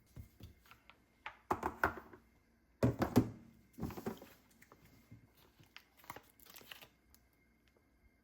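Crinkling and tearing of wrapping or packaging, with a few knocks, in several bursts that stop about seven seconds in.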